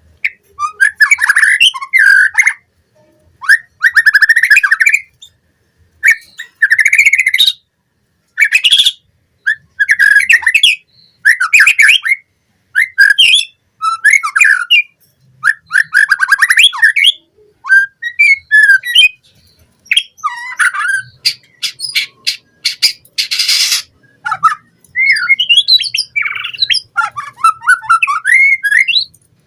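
White-rumped shama singing a varied song of short whistled and chattering phrases, each about a second long with brief pauses between them. About three quarters of the way through there is one harsh, rasping burst.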